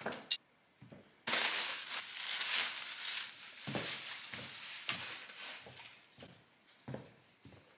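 Paper packaging rustling and crinkling as it is handled, starting suddenly about a second in and easing off after about five seconds, with a few light knocks.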